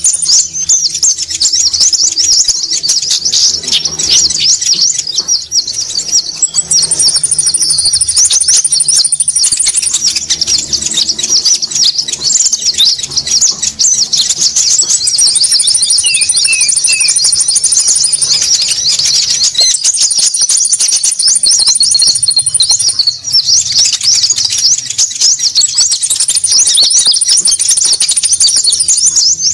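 Lure-call recording of konin birds, a dense, noisy chatter of rapid high chips from many small birds at once. A thin, very high trill lasting two to three seconds comes back about five times over the chatter.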